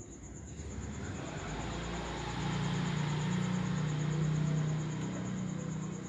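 A motor vehicle engine idling nearby: a low, steady drone that swells in about a second in and holds.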